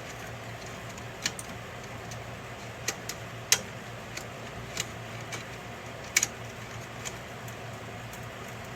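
Sharp clicks and knocks at irregular intervals, the loudest about three and a half seconds in, from parts being handled during an HP printer repair, over a steady low hum.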